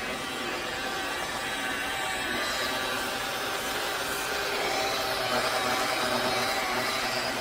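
Electric buffer running steadily at a constant speed while polishing a plastic headlight lens with polishing compound.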